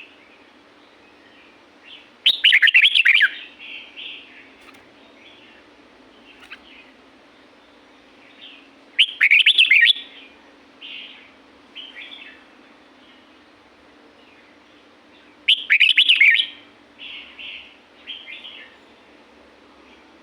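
Red-whiskered bulbul singing: three loud, quick warbled phrases about six to seven seconds apart, each followed by a few softer short notes.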